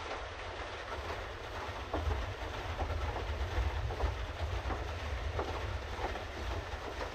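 Pedal boat underway: a steady low rumble with irregular clacks and ticks from the pedal drive and paddle wheel working through the water.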